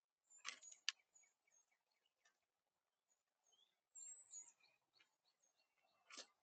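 Faint high chirps and whistled calls of small songbirds, repeated throughout. A few sharp taps stand out about half a second in, just under a second in, and near the end.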